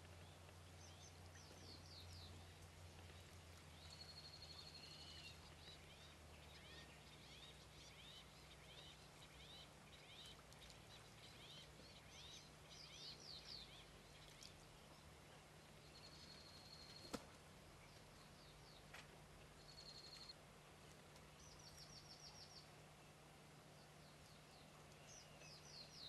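Faint background birdsong: short high chirps, quick falling trills and a few brief whistles, over a low steady hum, with one sharp click about two-thirds of the way through.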